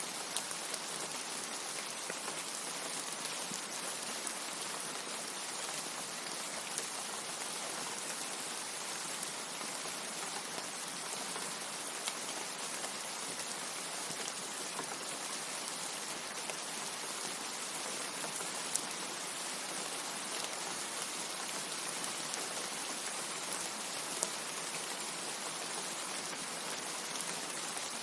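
Steady rain: a dense, even hiss of falling drops, with a few sharper drop ticks standing out now and then. No thunder is heard.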